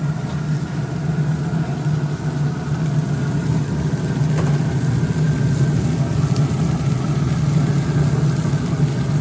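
An engine idling, a steady low hum that does not change.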